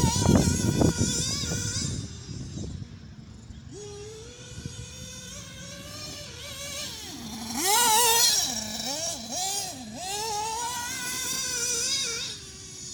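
Nitro RC buggy's small two-stroke .28 racing engine, a high-pitched buzz revving up and down as the buggy drives around. It is loud close by just after the start, fades as the buggy moves away, and comes back louder about eight seconds in and again near the end.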